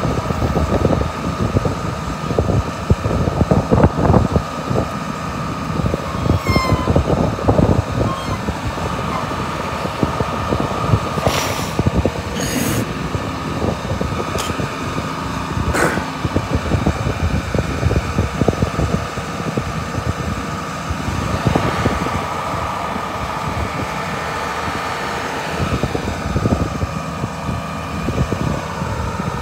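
A vehicle engine running steadily with a constant tone over a rumbling noise, and a few sharp clicks about halfway through.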